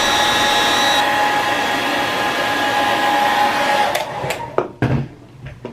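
Handheld hair dryer blowing steadily with a thin whine, switched off about four seconds in, followed by a few sharp knocks.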